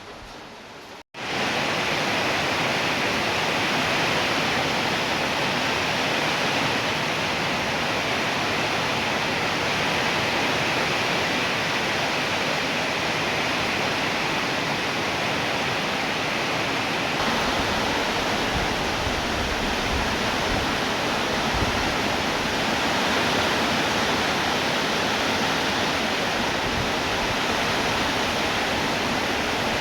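Rain falling steadily in an even, dense hiss. About a second in, a softer stretch cuts off for an instant and the rain comes back much louder, then holds steady.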